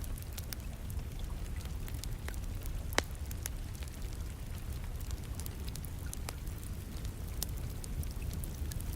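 Wood fire crackling with scattered sharp pops, the loudest about three seconds in, over a steady low rumble of rain.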